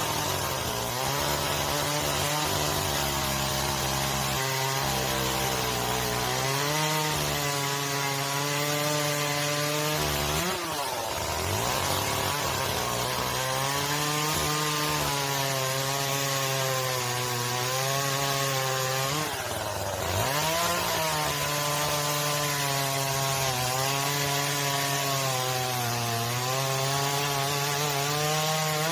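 Chainsaw running at high revs cutting firewood, its pitch wavering under load. Twice, about ten and twenty seconds in, the engine drops in pitch and picks back up.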